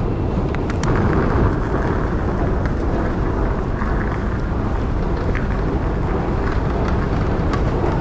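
Steady outdoor city noise: a dense low rumble with a few faint ticks over it.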